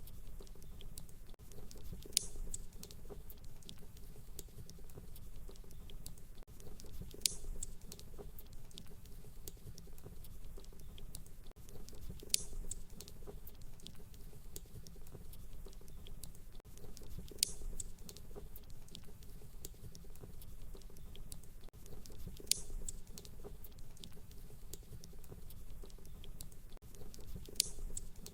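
Fireplace crackling: a steady low rumble with many small crackles and a louder pop about every five seconds, so evenly spaced that it sounds like a looped track.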